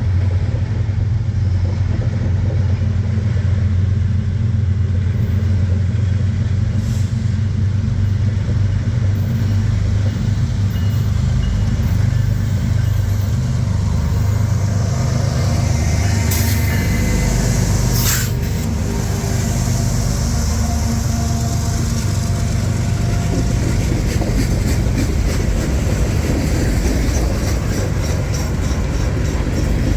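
Canadian National freight train passing close by: a steady low diesel locomotive drone, then, from about two-thirds of the way in, the wheels clicking over rail joints in a quick, even rhythm as the cars roll past.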